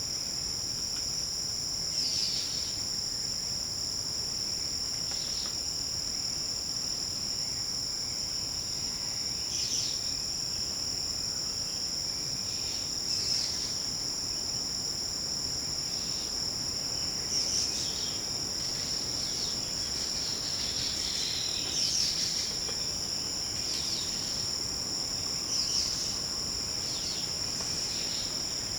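Forest insect chorus, a steady high-pitched drone on several pitches, with short high calls, probably birds, breaking in every few seconds.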